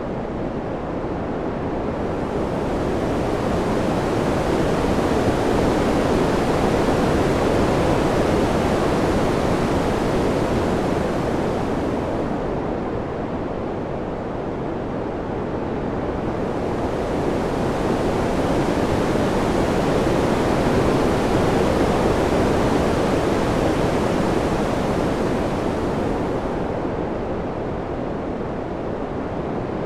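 Ambient wind noise, a steady rushing hiss that swells and eases in slow waves, peaking twice, with the high hiss dropping away in each lull.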